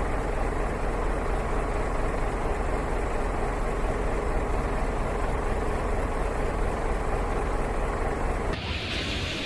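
Steady running noise of a motor vehicle, with a faint steady hum underneath. The sound changes abruptly near the end to a different, hissier noise.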